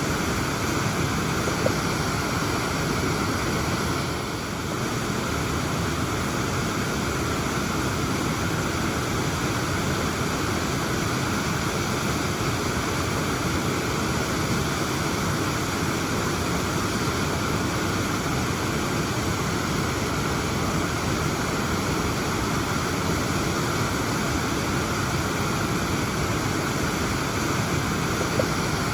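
Waterfall: the steady, even rush of water falling and splashing.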